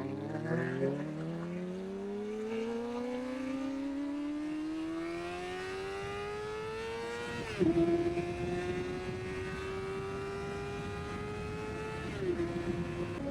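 Kawasaki Ninja ZX-4RR's inline-four engine through its exhaust, pulling hard as the revs climb steadily for about seven seconds. The pitch then drops sharply with a loud crack on an upshift, and the engine holds a nearly steady pitch before dipping again near the end.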